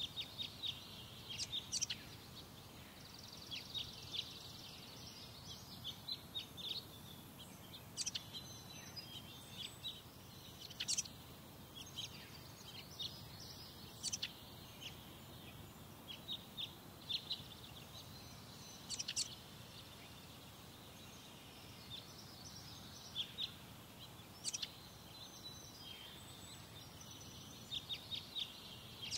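Birds chirping: many short, sharp high-pitched notes, singly and in quick runs, scattered through the whole stretch over a steady low background rumble.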